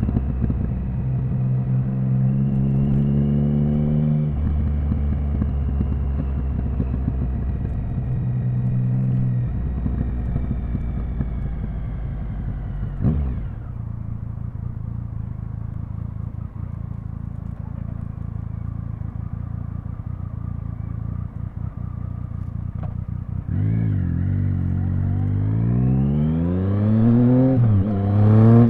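Triumph Speed Triple 1050's inline three-cylinder engine in city riding: it pulls up through a couple of gears with a drop in pitch at each shift, runs steadier and lower through the middle with a short sharp blip about thirteen seconds in, then accelerates hard near the end, the pitch rising and dropping through several quick upshifts.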